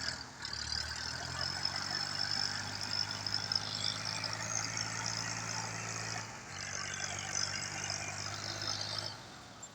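Tractor diesel engine running at a steady speed, dipping briefly about six seconds in and cutting off just after nine seconds.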